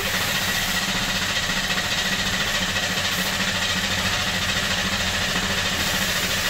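1996 Buick Century's 3.1-litre V6 cranking over on the starter with its fuel injectors disconnected, so it turns without firing, in a steady rhythmic chug. It is a by-ear relative compression check, in which the mechanic hears a slight difference in cadence.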